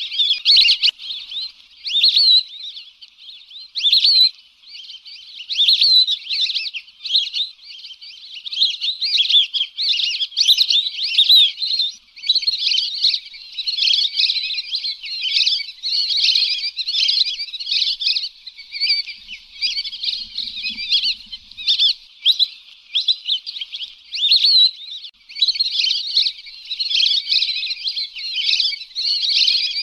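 A flock of lesser whistling ducks calling: dense, overlapping high chirping whistles that go on almost without a break.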